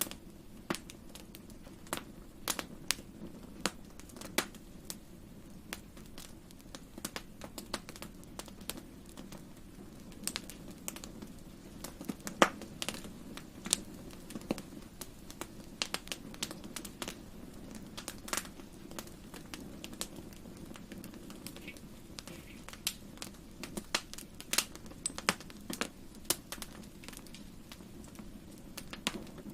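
Wood fire crackling and popping, with irregular sharp snaps over a steady low rumble of the flames; one louder pop about twelve seconds in.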